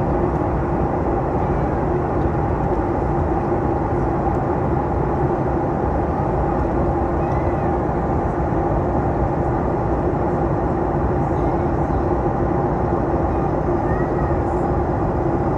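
Steady cabin noise inside a Boeing 737 MAX 8 airliner: an even rumble of engines and airflow with two steady hums running through it.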